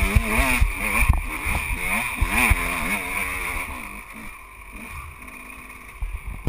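KTM 125 EXC two-stroke enduro motorcycle engine revving up and down rapidly under hard load, with knocks from the bike jolting over rough ground. About four seconds in, the revs drop and the engine runs quieter and steadier at low speed, and there is a sharp knock near the end.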